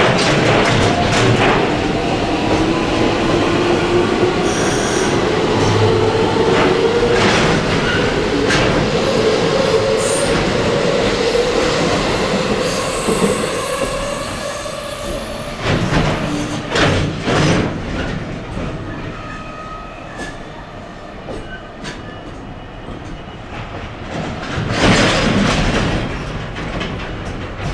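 Electric train running past, its traction motors giving a whine that rises slowly in pitch over the first half as it gathers speed. The wheels clack over rail joints several times, loudest near the end.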